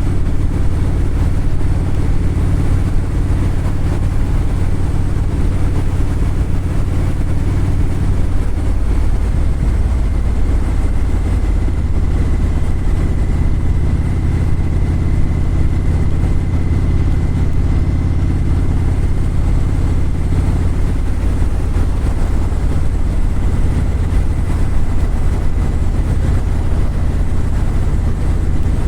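An engine running at a steady speed: a constant low drone with a faint steady high whine over it.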